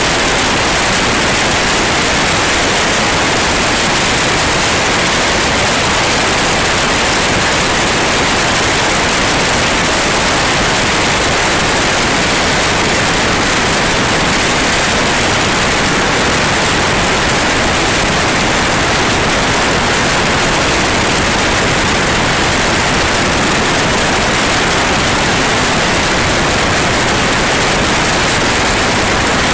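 Steady, loud, unchanging rushing noise inside a light airplane's cabin during the landing approach: engine and airflow noise, with no distinct tones or events.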